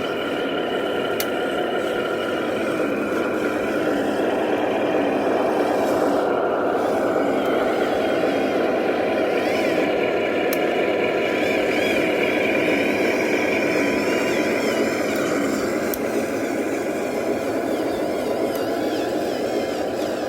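Remote-control 8x8 model truck running, its drivetrain giving a steady whine with several held tones that waver in pitch from about eight seconds in.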